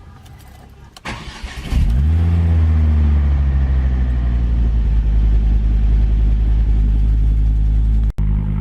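Tuned Ford Focus engine cold-starting: the starter cranks briefly about a second in, the engine catches with a flare of revs, then settles into a steady fast cold idle. The sound drops out for an instant near the end.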